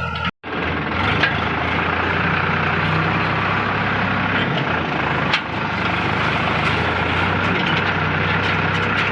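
Sonalika DI 740 III tractor's diesel engine running steadily under load while hauling a loaded trolley, with a couple of brief knocks. The sound drops out for a moment just after the start.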